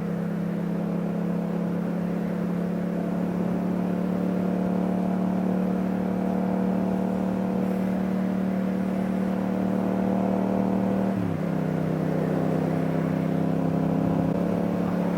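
2015 Yamaha FZ-07's parallel-twin engine with an Akrapovic titanium exhaust running steadily at cruising speed, under wind rush. About 11 seconds in the engine note drops briefly in pitch, as at a gear change, then settles again.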